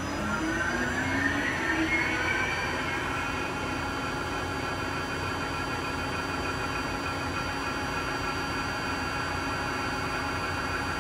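Hwacheon T130 lathe spindle spinning up, its whine rising for about the first two and a half seconds, then running steadily at speed.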